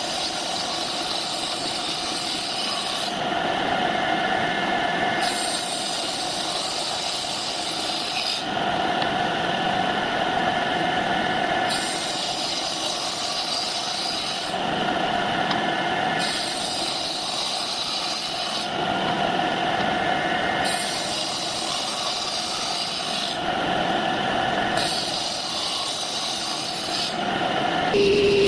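An electric power tool running on wood, with a steady motor tone; its higher, rasping part swells and eases in a regular cycle about every five seconds.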